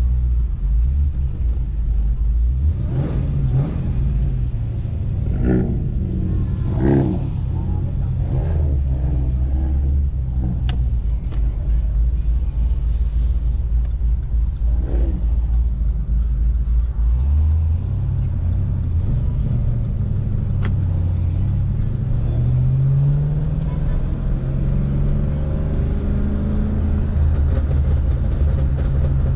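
Car engine rumbling low at crawling speed, rising in pitch as it accelerates about three-quarters of the way through.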